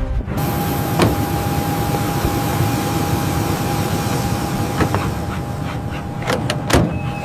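Steady rushing and rumbling noise of an aircraft in flight. A single steady high tone sounds over it, and a few sharp clicks come about a second in and again late on.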